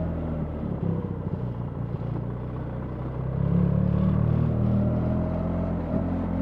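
BMW R 1300 GS boxer-twin engine under way: off the throttle and quieter for the first few seconds, then pulling again with rising revs from about halfway through.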